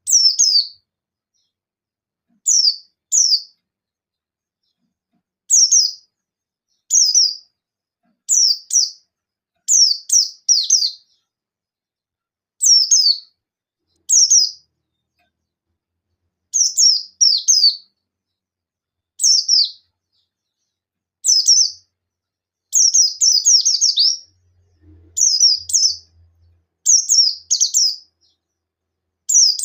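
A white-eye (pleci buxtoni) gives short, sharp, high chirps that sweep downward. They come singly, in quick pairs or in rapid runs of three or four, with gaps of a second or two. These are the 'nembak' shooting calls used as a lure to set other white-eyes calling.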